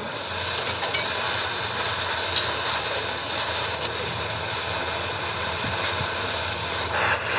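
A steady, loud hiss, an even rush of noise that holds without a break or a rhythm.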